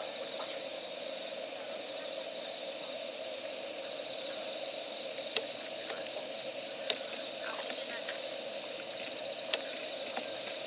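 Wood campfire crackling with a few sharp pops, over the steady high chirring of insects.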